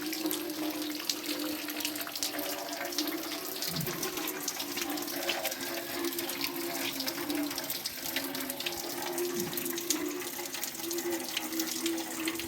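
Water running and splashing, with many small irregular clicks, over a steady low hum.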